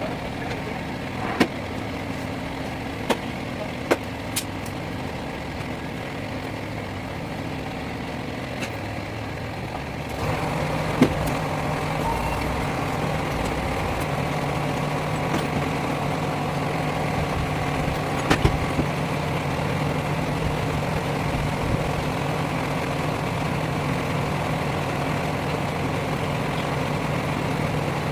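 Lorry engine running steadily, getting louder with a stronger low hum about ten seconds in, with a few sharp knocks scattered through.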